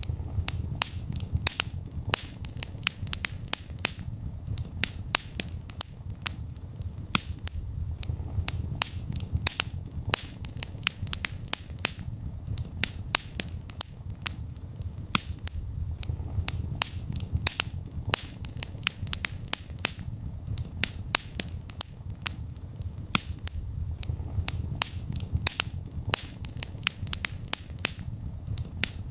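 Wood fire burning in a fireplace: dense, irregular crackling and sharp pops, several a second, over a low steady rumble of the flames.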